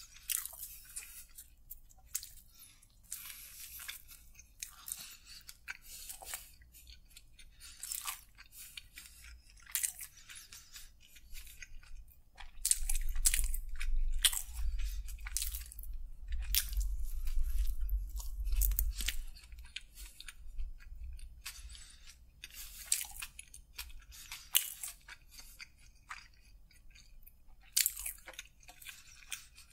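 Close-miked chewing and biting of a chicken submarine sandwich: many short sharp mouth clicks scattered throughout, with a deep low rumble for several seconds in the middle.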